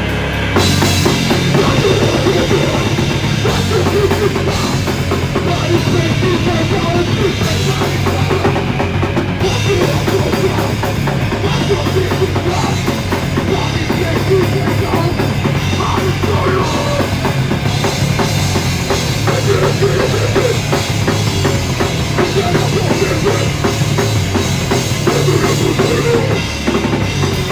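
Live band playing loud heavy rock, with the drum kit and bass drum prominent under the guitars and bass, recorded on a mobile phone.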